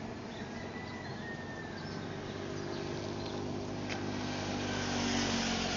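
A motor vehicle approaching and passing, its engine and tyre noise building to a peak about five seconds in, then easing off. A single sharp click about four seconds in.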